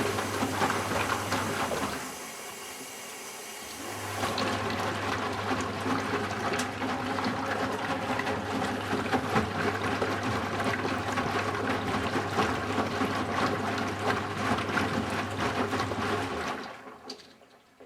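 Eudora Sparmeister 702 washing machine taking in water for a rinse: water rushing in with a steady low hum. The flow drops away briefly about two seconds in, resumes, and shuts off near the end.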